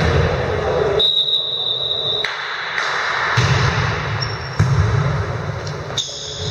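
Indoor volleyball game: a referee's whistle blows once for about a second, about a second in, amid the hall's background noise, with a sharp ball hit a few seconds later.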